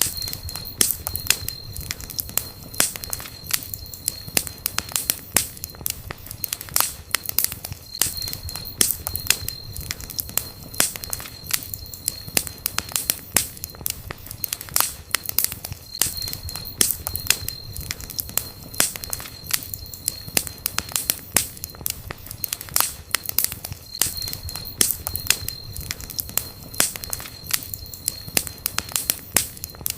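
Campfire burning, with frequent sharp crackles and pops over a low, steady rumble of the flames.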